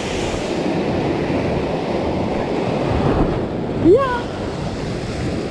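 Sea surf washing on a rocky shore with wind buffeting the microphone, a steady rushing noise. About four seconds in, a brief rising tone cuts through it.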